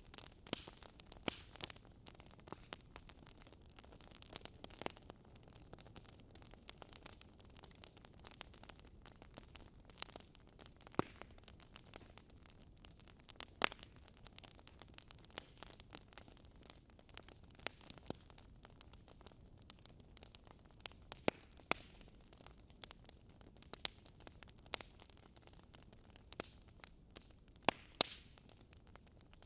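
Wood fire burning in a fireplace, crackling with irregular sharp pops over a faint steady hiss.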